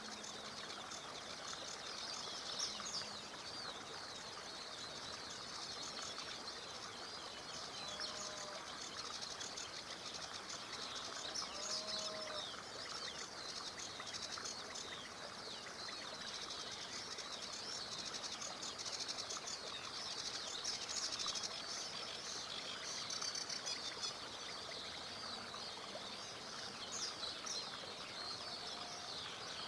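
Many small birds singing together, a dense run of overlapping high chirps and trills, over the steady rush of a small river. A couple of lower, arching whistled notes stand out about a third of the way in.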